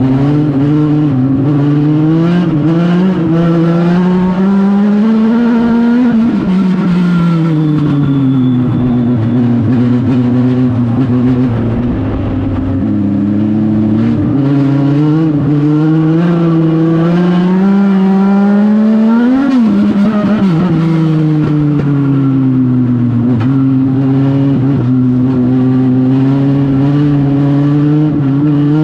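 Legend car's engine running hard at racing speed, its pitch climbing and then falling off sharply twice before climbing again.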